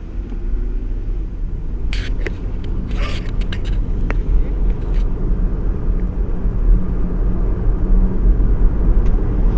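2017 Toyota Kluger on the move, heard through an open window: a steady low rumble of engine and road that grows slowly louder, with a few brief clicks about two and three seconds in. The engine is running on freshly changed oil and sounds smooth.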